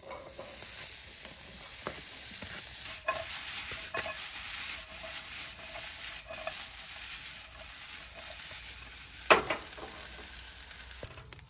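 Diced onion and yellow bell pepper sizzling in a hot nonstick frying pan, stirred with a utensil scraping and clicking against the pan. A sharp clack a little past nine seconds is the loudest sound. The sizzle cuts off just before the end.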